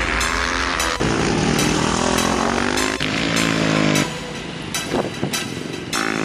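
Supermoto motorcycle engine revving up in rising runs, each cut off sharply as it shifts gear, then quieter for the last couple of seconds. Music with a steady beat plays underneath.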